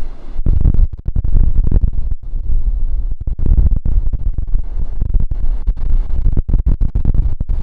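Heavy wind buffeting the camera's microphone: a loud, uneven low rumble broken by many brief dropouts. Ocean surf washes faintly underneath.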